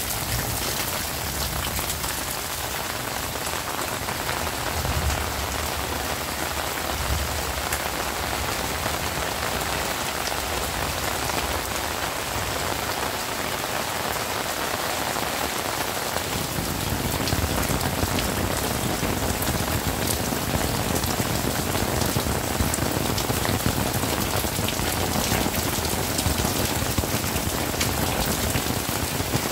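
Heavy rain falling steadily on the ground and surfaces, getting a little louder and fuller from about halfway through.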